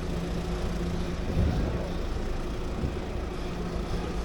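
City street traffic: a steady low engine hum from road vehicles, swelling briefly about a second and a half in.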